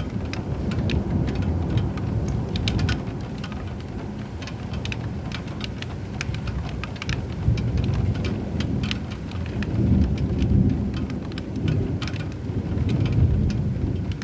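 Steady rain with many sharp drop ticks, over low thunder rumbling that swells and fades several times, loudest about two-thirds of the way through and again near the end.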